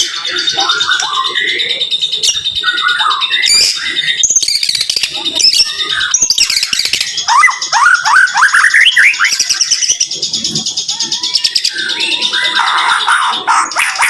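White-rumped shama (murai batu) singing a dense, rapid-fire song of fast whistles and chatters, with a run of quick rising slurs around the middle. A steady high tone rings under the song throughout.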